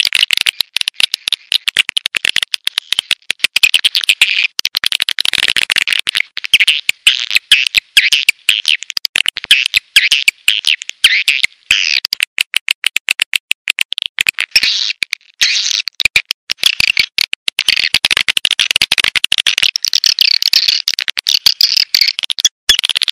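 Edible-nest swiftlets twittering: a dense, continuous stream of rapid high chirps and clicks. This is a swiftlet lure call, played to draw swiftlets into a nesting house.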